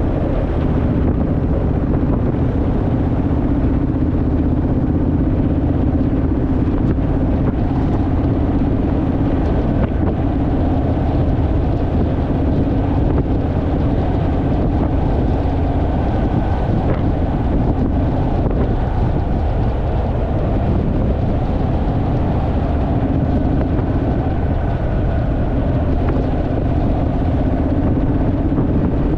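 Motorcycle engine running at a steady pitch while riding, with wind rushing over the microphone.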